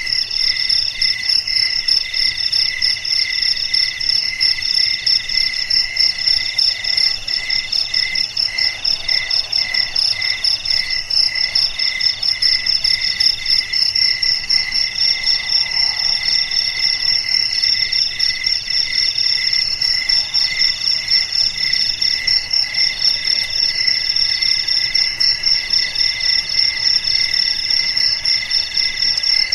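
A chorus of crickets chirping without pause, several calling at once: one in a fast, even, high pulse, another in long trills of about a second and a half with short breaks between them, and a lower pulsing call beneath.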